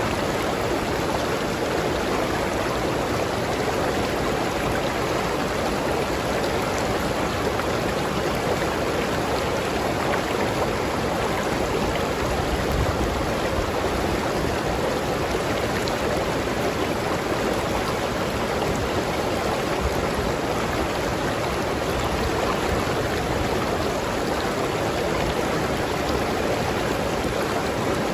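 River water rushing and burbling over rocks in a steady, even flow.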